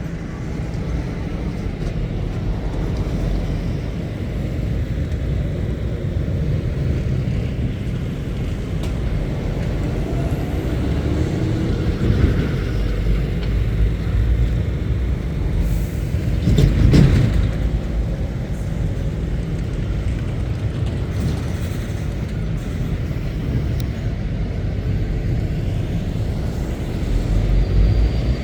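Heavy lorries' diesel engines rumbling as they pull away and pass by, one engine rising in pitch as it speeds up. About two-thirds of the way through comes a short, loud hiss.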